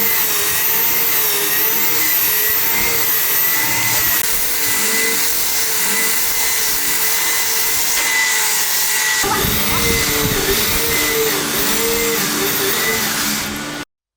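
Electric power tool motor running steadily under use, its pitch wavering slightly, then cutting off suddenly near the end.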